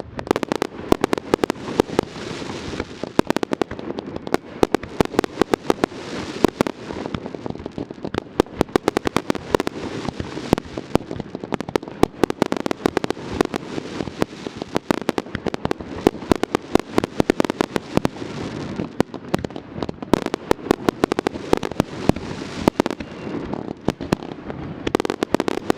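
Aerial fireworks in a dense barrage: many sharp bangs and crackling bursts going off in quick succession, overlapping without a pause.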